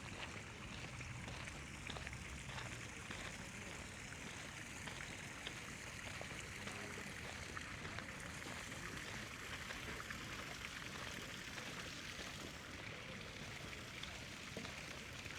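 A steady rush of running water.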